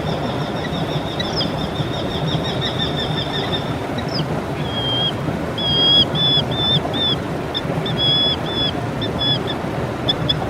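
Songbird singing: a fast trill of repeated high notes for about three and a half seconds, then a string of short separate chirps, with quick ticking notes near the end. Under it runs a steady rushing noise.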